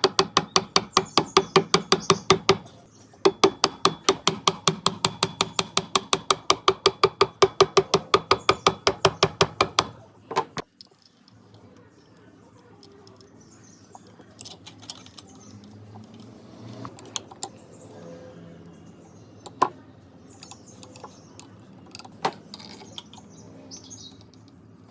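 Rapid, evenly spaced hammer blows on ringing metal, about four or five a second, with a brief break near the start, stopping about ten seconds in. Scattered light metallic clinks of tools being handled follow.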